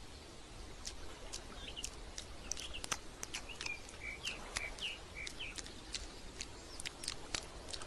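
Small birds chirping in short, quick calls, faint, with many sharp clicks scattered among them.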